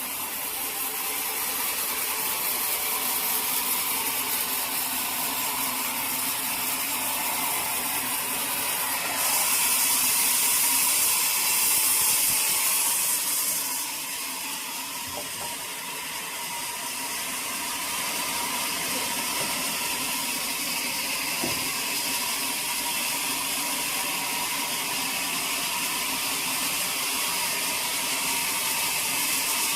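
Sawmill machinery running, a steady mechanical rattle with a high hiss. It grows louder and brighter for about four seconds a third of the way in.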